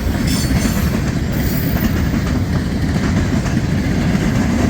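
Freight cars of a long mixed freight train rolling past at speed: a steady, loud rumble of steel wheels on rail with a clickety-clack over the rail joints.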